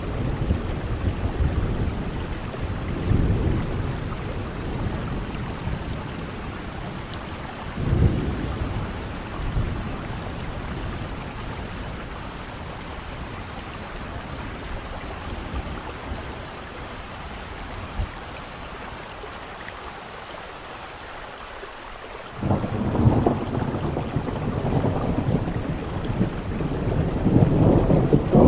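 Steady rain with rolling thunder. The rumbles fade in the middle, then a heavy roll of thunder comes in suddenly about two-thirds of the way through and grows louder toward the end.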